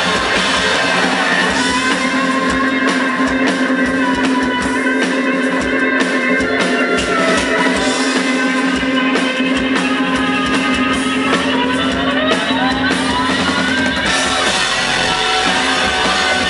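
Rock band playing live, an instrumental passage with electric guitar and drums and no singing, over a long held note with rising slides near the end.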